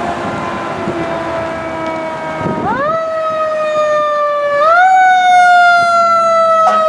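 Fire truck siren wailing: a pitched tone that falls slowly, then twice climbs quickly and slowly falls again.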